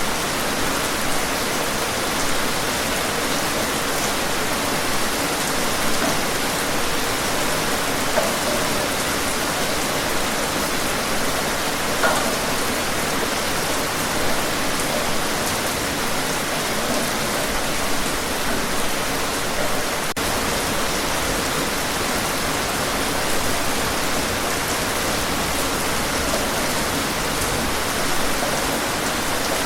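Steady heavy rain: a dense, even hiss of falling rain with small spatters now and then.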